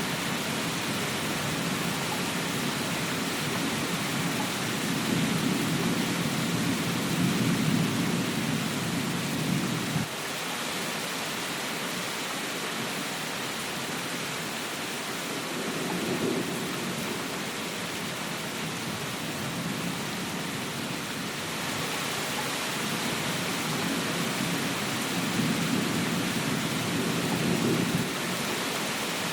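Steady heavy rain, with low rolls of thunder swelling beneath it. The first rumble lasts about ten seconds and stops abruptly, a short one comes midway, and another builds near the end.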